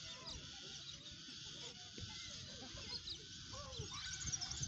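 Birds calling from the trees: a scatter of short squawks and chirps, with high twittering that grows busier near the end.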